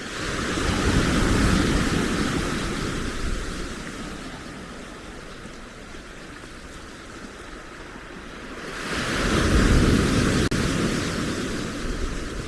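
Blizzard wind and Lake Ontario surf, heard as two long surges of rushing noise, each building over about a second and fading over a few seconds; the second begins about nine seconds in.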